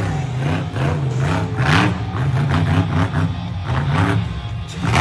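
Monster truck engine revving, its pitch rising and falling again and again, with music playing over the arena sound.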